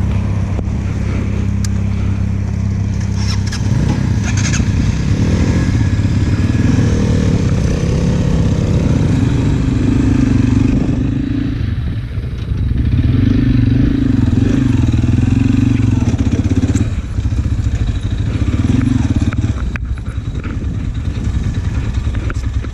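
Motorcycle engine, most likely the Gilera SMX Adventure 250's single-cylinder engine, running under way. Its pitch rises and falls several times as the throttle changes.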